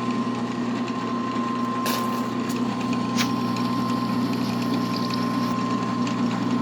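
Drill press motor running with a steady hum. Two clicks about two and three seconds in as the pump switch is flicked, followed by a faint hiss and trickle of cutting solution from the oiler line.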